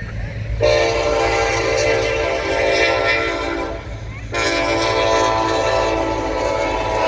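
Norfolk Southern SD70ACE diesel locomotive's multi-chime air horn sounding two long blasts with a short break between them, over a low steady rumble.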